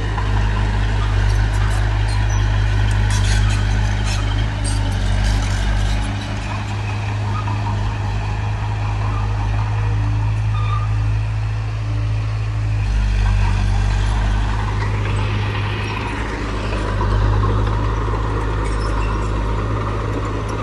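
Heavy construction machinery's diesel engine running steadily with a deep hum, its note shifting a couple of times, with light metallic clanks in the first few seconds.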